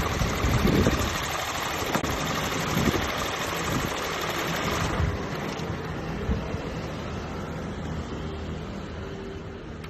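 Skoda Kodiaq's 1.4 TSI turbocharged four-cylinder petrol engine idling with an abnormal noise and uneven low swells, the fault that comes with its lit engine warning light and the car shaking. A hiss over the hum drops away about halfway through.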